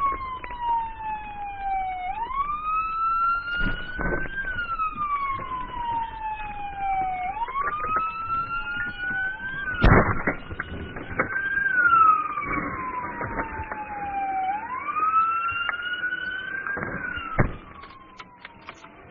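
Police siren wailing, each cycle rising quickly and then falling slowly over about five seconds, with a fainter second wail overlapping. A few sharp clicks cut through, the loudest about ten seconds in, and the siren stops near the end.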